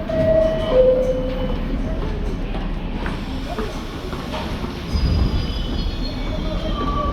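Kawasaki R62 subway train running on the rails with a steady low rumble. Its wheels give short squeals about a second in and a longer, higher squeal near the end, and the rumble grows louder about five seconds in.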